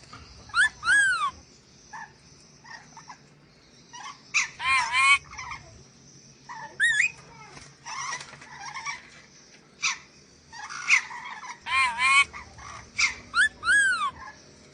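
Nuri dora parrot calling: repeated harsh, arching screeches in short clusters, spaced a second or more apart.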